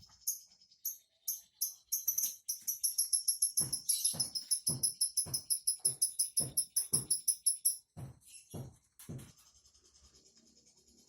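Small caged songbird calling in a fast run of high, sharp chirps, about ten a second, for several seconds, with scattered single chirps before and after. Under the chirping come soft low thumps, about two a second.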